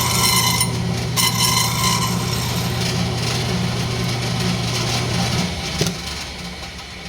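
Wood lathe running with a steady motor hum while a turning tool cuts spinning rosewood, giving a hissing cut in two short passes over the first two seconds. The motor hum stops about five and a half seconds in, a click follows, and the sound fades away.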